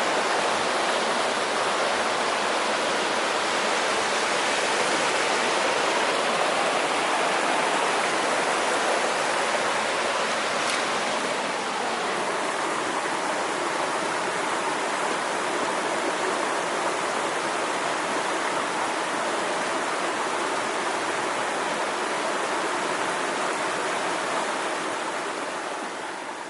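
Mountain stream running: a steady rush of water that fades out near the end.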